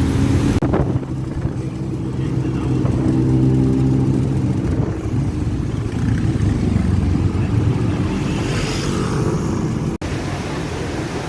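A motor vehicle engine running steadily, with a low hum.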